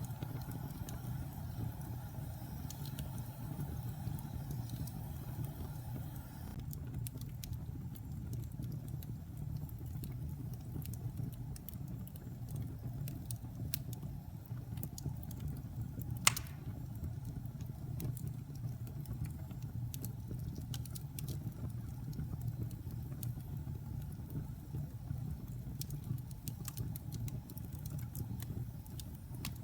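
Wood fire burning in a fireplace: a steady low rumble of flame with scattered crackles, and one sharp pop about halfway through.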